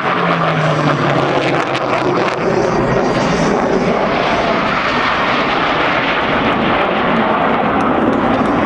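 Airplane engine noise at an airshow flyby: a loud, steady roar, with a low tone sliding slightly downward in the first couple of seconds.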